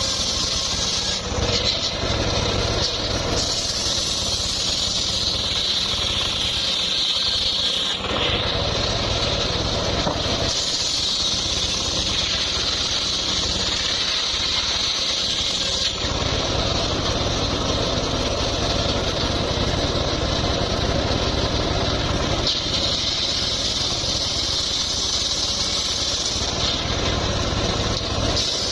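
Power saw running steadily while sawing mahogany timber, a continuous machine drone with a high whine that shifts pitch and briefly drops a few times.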